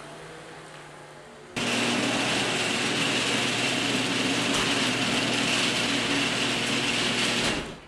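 A loud, steady mechanical clatter, like gears or a ratchet turning, starts suddenly about a second and a half in and cuts off just before the end.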